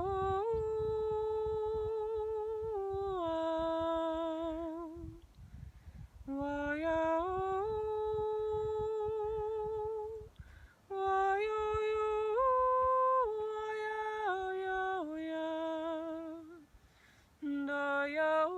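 A woman humming a slow, wordless improvised melody, holding long notes with a slight vibrato and stepping up and down between a few pitches. She sings three phrases, breaking for a breath between them, as a repeating mantra-like tune.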